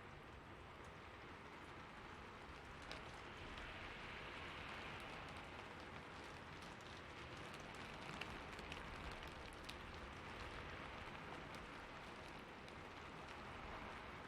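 Steady rain falling: a soft, even hiss with scattered faint ticks of individual drops.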